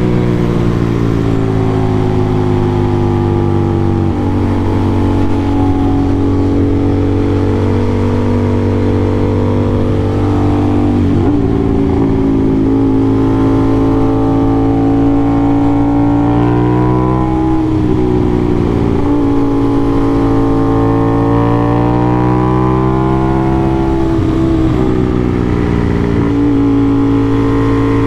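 Aprilia RS660 parallel-twin sport bike engine through an SC-Project CRT exhaust, ridden hard: the engine note climbs under throttle and drops sharply several times, about 4, 11, 17 and 25 seconds in, on gear changes and throttle-off into corners.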